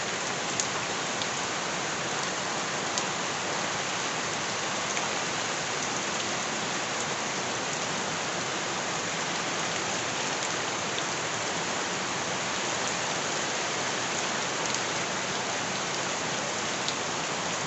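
Steady rain falling on surfaces, an even hiss with a few sharp single drip ticks standing out now and then.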